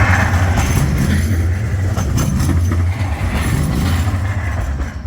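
Bombardier Flexity 2 light rail tram passing close by: a loud low rumble with wheel and rail noise that rises as it arrives and eases off near the end.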